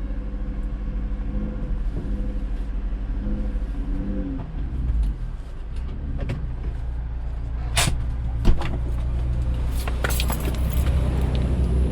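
A vehicle engine idling with a steady low hum. Several sharp metallic clicks and knocks come in the second half.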